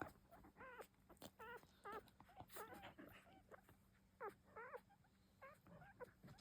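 Newborn Shetland sheepdog puppy whimpering: about eight faint, short, high squeaks with a wavering pitch, made while it is held for a nail trim.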